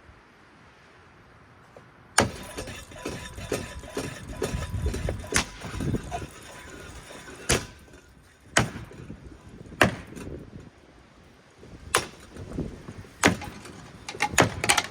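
A ceiling fan being wrecked: from about two seconds in, a rattling clatter with loud, irregular bangs every second or two as it breaks apart, up to a blade coming off.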